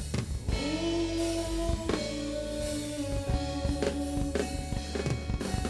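Live band music: drum kit hits under a long held note with a guitar-like tone.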